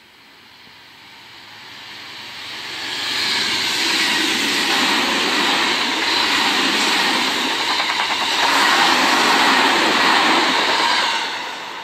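Tokyo Metro 10000 series electric commuter train passing close by: wheels on rails, the noise swelling over the first few seconds as it approaches, staying loud for about eight seconds with a rapid wheel clatter as the cars go by, then fading near the end.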